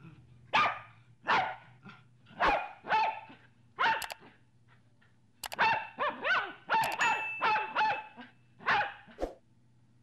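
Puppy barking: a string of short, high-pitched yaps, spaced out at first and coming faster in the second half.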